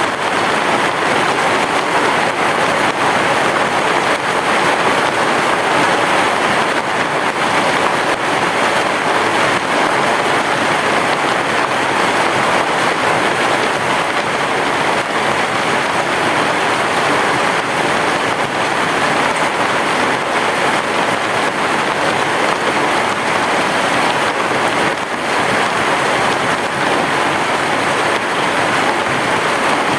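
Heavy rain falling steadily on a roof, an even hiss with no distinct thunderclap.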